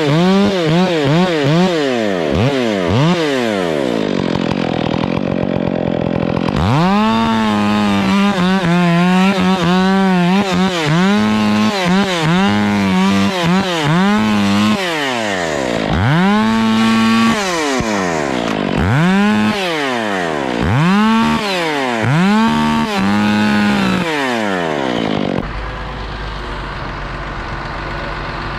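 Two-stroke Stihl chainsaw revved again and again, its engine pitch rising and falling with each squeeze of the throttle, with a steadier stretch a few seconds in. Near the end the saw stops and a low, steady engine rumble remains.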